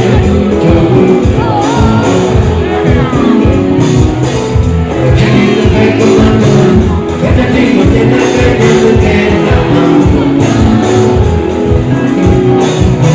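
Loud live band music with a sung vocal line over a steady, bass-heavy beat.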